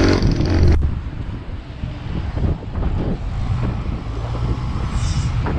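Road vehicle and traffic noise, a steady low rumble that starts after an abrupt cut about a second in.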